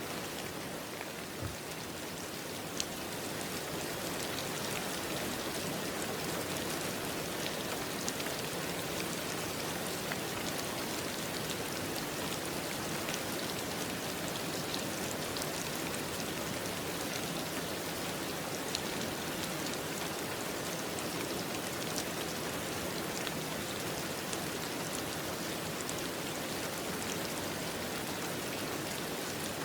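Steady rain falling: an even hiss dotted with scattered sharper drop hits, swelling slightly over the first few seconds.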